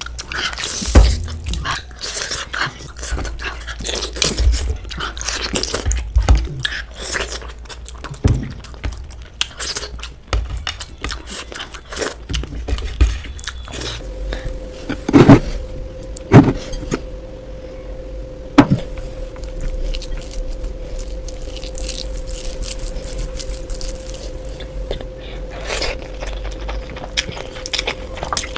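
Close-miked eating sounds: chewing and smacking, with food being scraped and picked at on the plate. A steady hum joins about halfway through.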